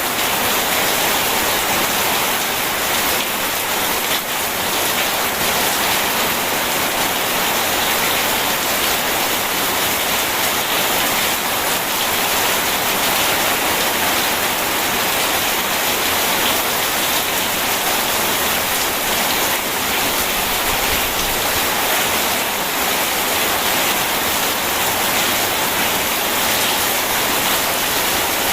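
Steady, dense rain noise mixed with rushing water, an even hiss with no distinct drops or thunder.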